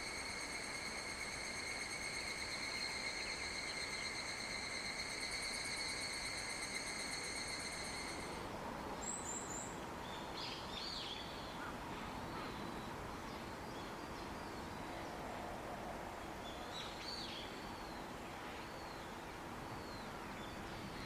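Steady, high-pitched insect drone, a single unbroken tone with overtones, cutting off abruptly about eight seconds in. After that come scattered short bird chirps, all over a steady background hiss.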